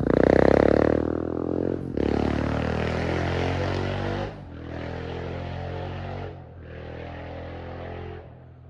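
Husqvarna 701's single-cylinder engine pulling away through the gears. The sound breaks briefly about every two seconds at each upshift and grows fainter with each gear until it fades out near the end.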